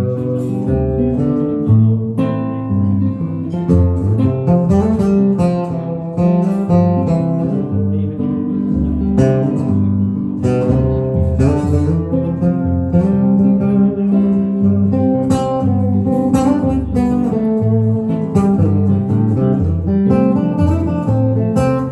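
A band's instrumental break with acoustic guitar, played live; no singing.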